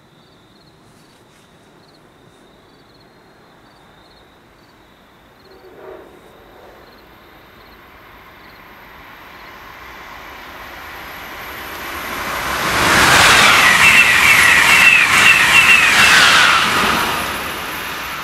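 Train passing at speed on the track beside the platform. The rush of wheels on rail builds over several seconds and is loud for about four seconds, with a wavering high whine, then fades as the train goes by.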